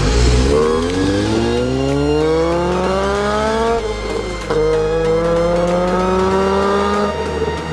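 Honda Accord Euro R's four-cylinder VTEC engine accelerating hard: the revs climb steeply, drop at a gear change about four seconds in, then climb more slowly in the next gear.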